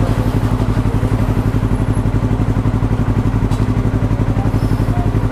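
Yamaha R3's parallel-twin engine idling, with a steady, even pulse.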